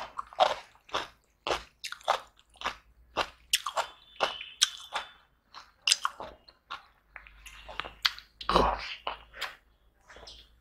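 A person chewing food close to the microphone, with wet, crunchy bites in a steady rhythm of about two a second. One louder, deeper chew comes about eight and a half seconds in.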